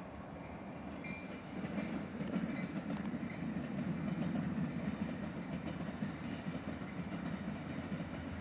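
A freight train moving along the rail yard tracks, a heavy rolling rumble that grows louder over the first two seconds and then holds steady.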